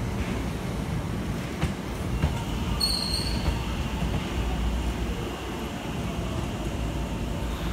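Hankyu 9000-series electric train rolling slowly past on a curve: a steady low rumble with a couple of wheel clacks over the rail joints, and a short, high-pitched wheel squeal about three seconds in that fades over the next two seconds.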